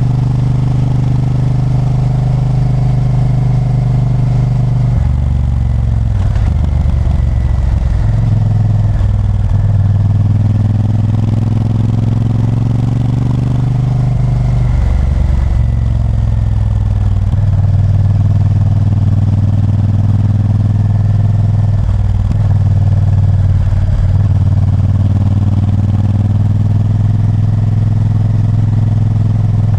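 Honda Varadero 1000's 90° V-twin engine running on the road. Its pitch shifts about five seconds in and again around the middle, with the revs wandering in between, then holds steadier toward the end.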